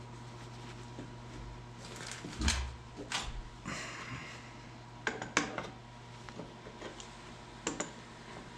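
Scattered light metallic clinks and knocks of hand tools and parts being handled during disassembly, irregular, the loudest about two and a half seconds in, over a faint steady low hum.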